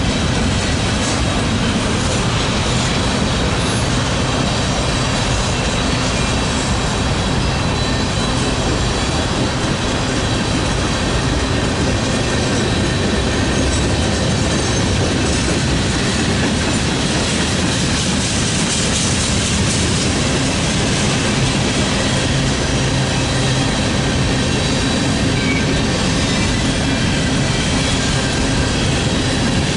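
Freight train cars rolling past: a steady rumble of steel wheels on the rails with clickety-clack over the joints, and faint thin high-pitched wheel squeal.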